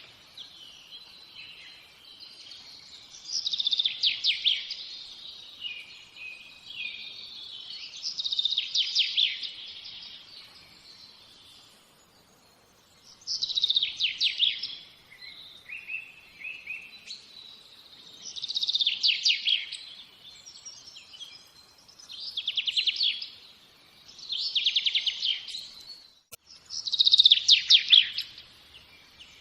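A songbird singing: rapid, high trilled phrases about a second long, repeated every four to five seconds, with softer chirps in between.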